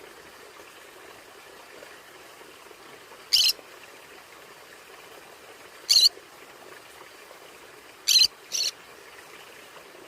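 Conure giving short, sharp screeching calls: once about a third of the way in, again about six seconds in, and a quick pair near the end, over a steady low hiss.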